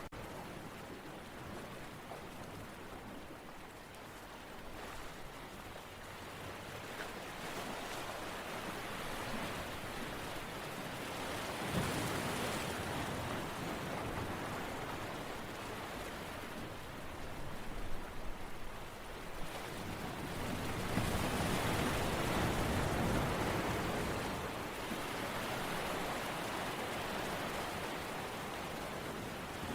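Steady rushing water noise that swells louder about twelve seconds in and again from about twenty seconds, ebbing between.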